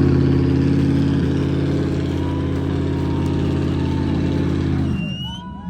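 Truck engine running loud at steady revs, then cutting off abruptly about five seconds in.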